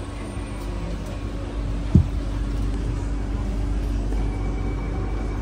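Steady low hum inside a stationary C151B MRT train car standing at the platform, with a single dull thump about two seconds in.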